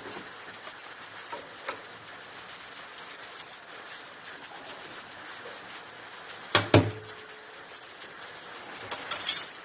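Small metallic clicks and knocks from hand-working a Lister SR3 diesel's fuel injection pump and injector, with one sharp double knock about two-thirds of the way through followed by a brief ringing hum, and a few quick clicks near the end.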